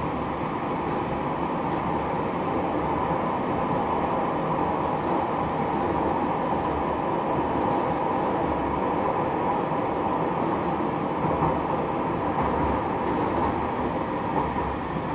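City tram in motion, heard from on board: a steady running rumble of wheels and motors with a faint steady whine. A faint high hiss comes in for about two seconds around five seconds in.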